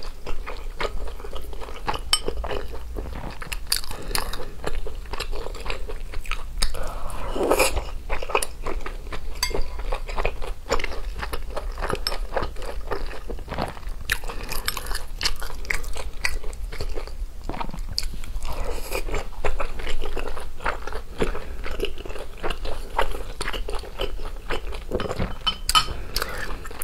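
Close-miked mouth sounds of a person eating soft steamed dumplings: biting and chewing, a dense run of short clicks.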